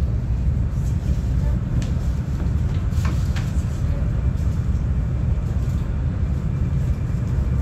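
Steady low rumble inside the cabin of the Whoosh high-speed train cruising at about 294 km/h, with a few faint clicks.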